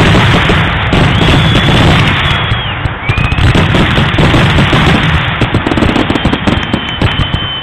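Fireworks finale barrage: loud, rapid, overlapping booms and crackling with no gaps, and high whistling tones rising or held over the barrage at times.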